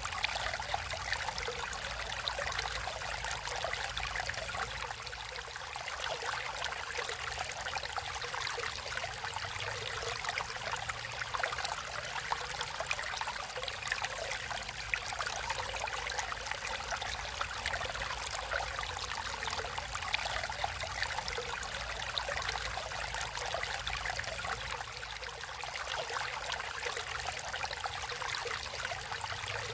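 Water flowing and trickling steadily in a natural stream, a continuous splashing babble with no breaks.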